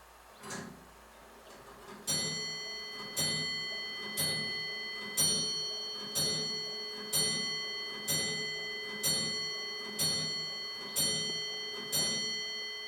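A bell strikes eleven times, evenly about a second apart, each stroke ringing on into the next, as a clock striking the hour does. A short, fainter sound comes about half a second in, before the strokes begin.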